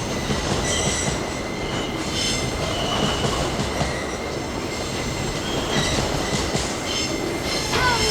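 Empty pulp freight wagons rolling past on the rails: a steady rumble of wheels on track, with short high-pitched wheel squeals recurring every second or so.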